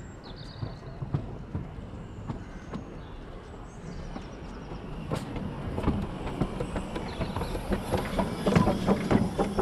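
Small narrow-gauge locomotive rolling slowly past close by, its wheels clicking and knocking over the rail joints, getting louder as it draws level near the end. A few bird chirps can be heard early on.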